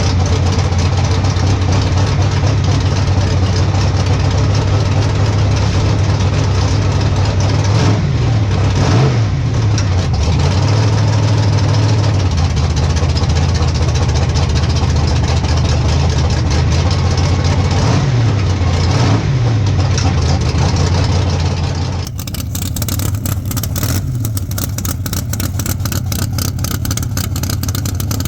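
Drag race car engine running loud, heard through an in-car camera. Its pitch drops and climbs again twice, about a third and two thirds of the way in. Near the end the sound switches abruptly to a choppier, pulsing engine sound.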